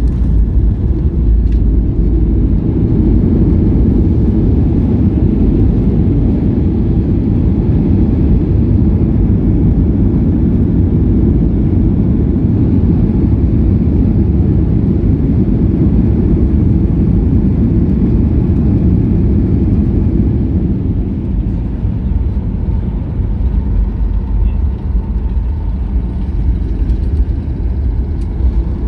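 Airliner cabin noise during landing: a loud, steady low rumble of the engines and rushing air, easing a little about three quarters of the way through.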